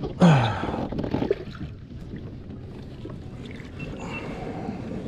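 Water sloshing and splashing around a kayak while a small redfish is reeled in alongside. About a quarter second in there is a short, loud sound that falls in pitch.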